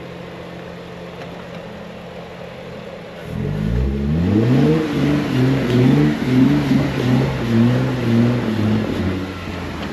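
Off-road 4x4's engine idling steadily, then revved hard about three seconds in as the truck attempts a slippery climb. The revs rise and fall repeatedly for several seconds before easing off near the end.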